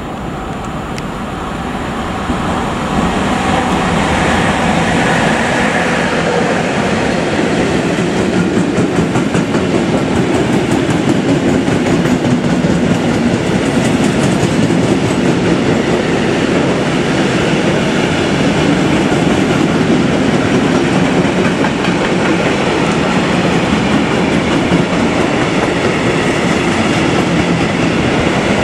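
Freight train passing close by on the near track, made up of flat wagons and covered hopper wagons: the sound of wheels running on the rails grows louder over the first three seconds as the train arrives, then holds steady as the wagons go past.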